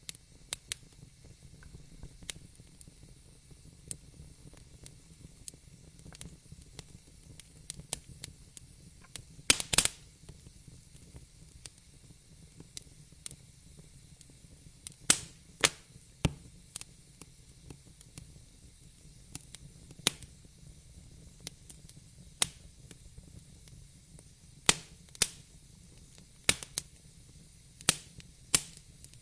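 Wood fire burning in a fireplace: a low steady hiss with irregular sharp crackles and pops, a cluster of louder pops about ten seconds in and several more through the second half.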